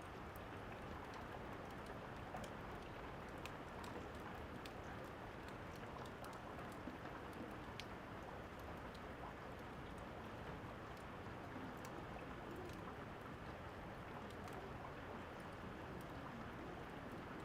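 Quiet, steady rain with scattered sharp crackles of a wood fire mixed in.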